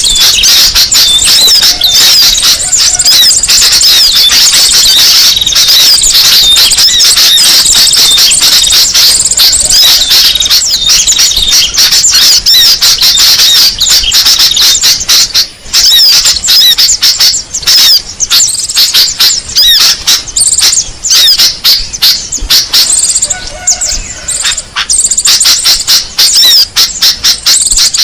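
Bird-lure recording of many small songbirds calling at once: a loud, dense chatter of fast high-pitched chirps and squeaky calls. About halfway through the calling turns sparser and choppier, with separate chirps and gaps.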